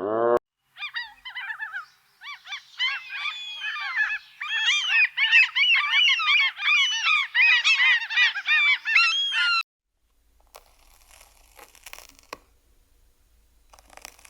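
A large flock of birds calling, many short calls overlapping densely, cutting off abruptly near ten seconds in; after that, only faint rustling and scraping.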